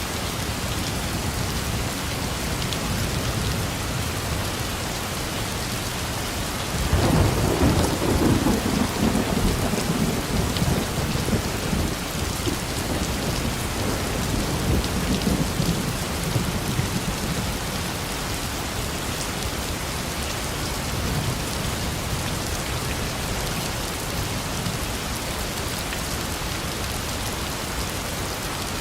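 Steady rain falling, with a long roll of thunder that begins about a quarter of the way in, is loudest for a couple of seconds, and rumbles on for about ten seconds before fading back under the rain.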